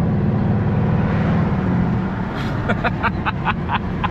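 Straight-piped M156 naturally aspirated V8 of a Mercedes C63 AMG running at low, steady revs, heard inside the cabin, easing off slightly about two seconds in. Over it, from about halfway, comes a rapid run of short high-pitched chirps, about four a second.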